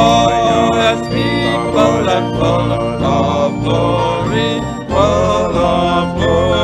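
Hymn music played on piano and organ, a sustained melody over steady bass notes.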